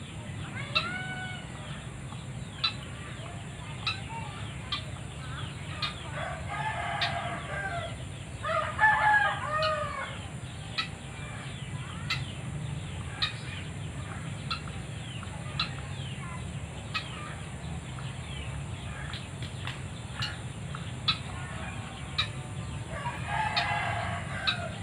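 White-breasted waterhen calling, with bouts of repeated calls about six and nine seconds in and again near the end, and short sharp calls about every second in between.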